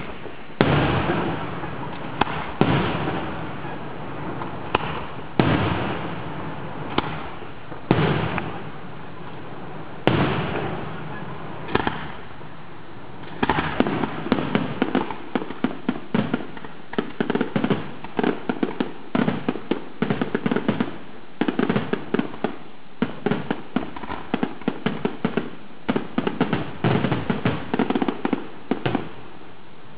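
Aerial fireworks shells bursting with loud bangs, each trailing off, one every second or two at first. About halfway through they give way to a rapid barrage of many bangs in quick succession.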